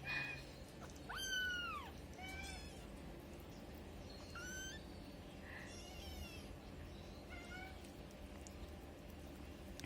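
Cat meowing repeatedly: about five short meows, the loudest about a second in, rising then falling in pitch.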